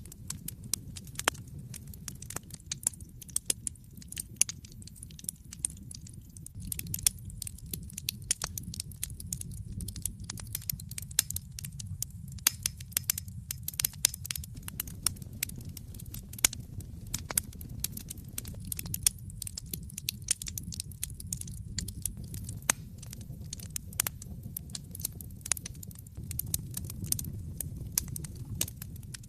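Wood fire crackling in a fireplace: many irregular sharp pops and snaps over a low steady sound of the flames.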